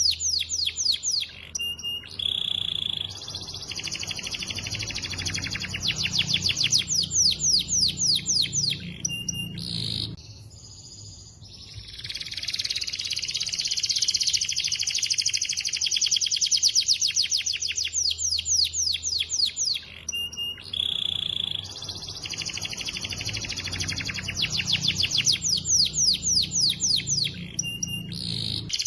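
Domestic canary singing in full voice: long runs of fast trills and rolls, broken by short held whistles. The song stops for about two seconds near the middle, then resumes.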